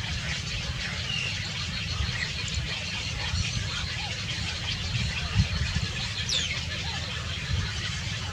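A few short bird chirps, some sliding downward, over a steady low rumble, with a brief thump about five seconds in.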